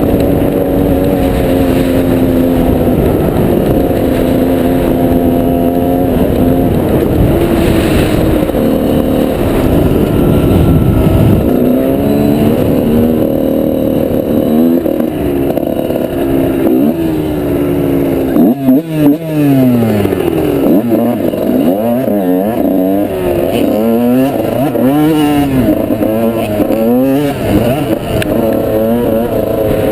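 Trail motorbike engine running under load off-road, holding a steady pitch at first, then revving up and down over and over from about twelve seconds in, with a brief break in the engine note around the nineteen-second mark.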